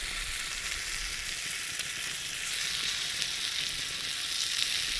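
Food frying in a pan over a campfire: a steady sizzling hiss with fine crackles, growing a little louder about halfway through.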